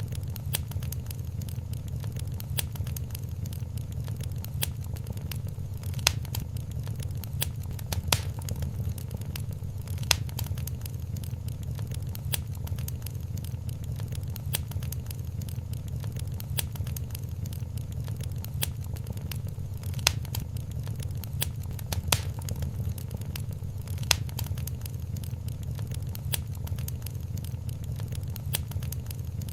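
Wood fire crackling in a fireplace: constant small crackles over a steady low rumble, with a sharper, louder pop every few seconds.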